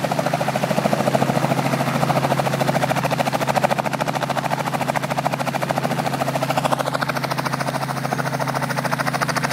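Helicopter's rotor blades chopping in a fast, steady beat over a steady low hum from the machine.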